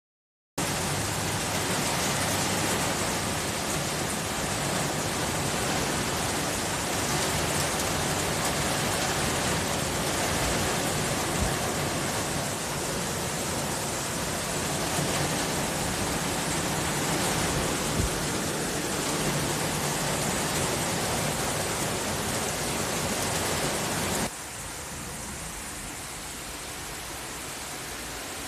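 Heavy storm rain pouring down as a steady, loud hiss, with two brief knocks in the middle. About 24 seconds in it cuts suddenly to a quieter hiss.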